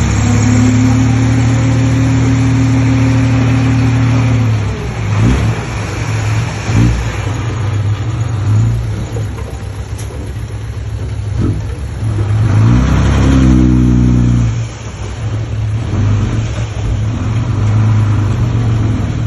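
Komatsu D20P bulldozer's diesel engine running under load, its pitch falling and rising as the throttle changes. There are a few sharp clanks about five to seven seconds in, and the engine revs up again around thirteen seconds in.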